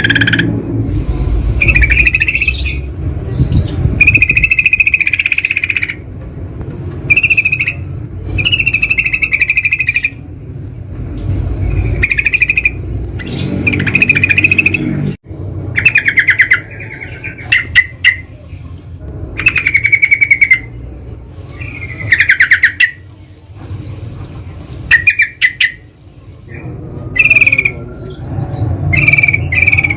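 Yellow-vented bulbuls calling: short bubbly chattering phrases, one every second or two, over a steady low rumble.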